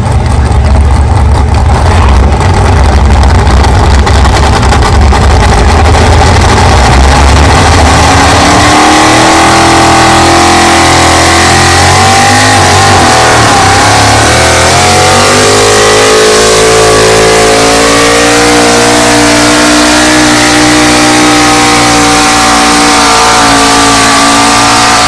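Pickup truck engine at full throttle pulling a weight sled, very loud. The rumble gives way to revs climbing about a third of the way in, dips briefly near the middle, then holds high to the end.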